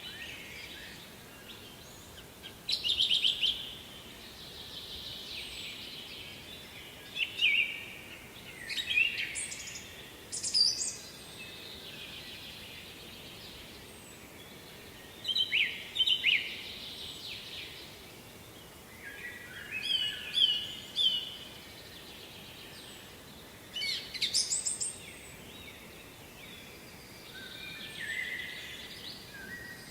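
Songbirds singing, with short, bright chirping phrases every few seconds over a faint, steady background hiss.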